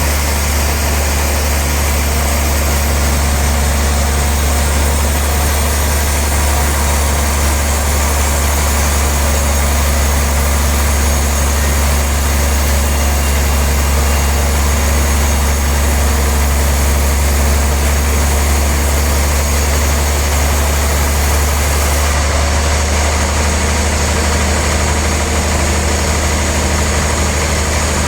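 Sawmill machinery running steadily: a loud, deep engine-like hum with a dense wash of mechanical noise over it. Near the end the highest hiss drops away a little.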